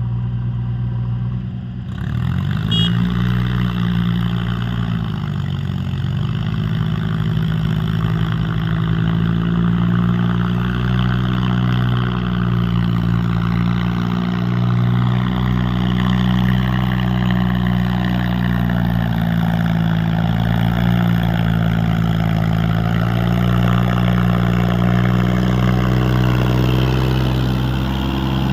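Mahindra 265 DI tractor's three-cylinder diesel engine running. Its pitch rises about two seconds in as it is revved, then it runs steadily at the higher speed with small rises and dips.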